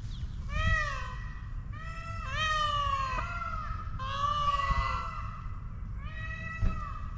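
Indian peafowl calling: a series of about four loud, wailing, cat-like calls, each rising and then falling in pitch.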